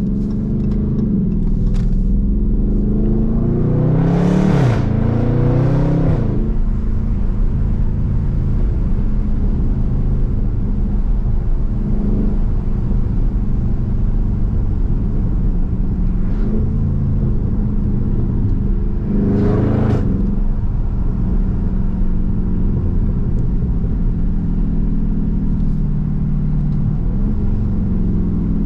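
Dodge Charger Daytona 392's 6.4-litre HEMI V8 heard from inside the cabin while driving, over steady road rumble. The engine note climbs and drops back about four to six seconds in and again near twenty seconds, as the car accelerates and shifts up.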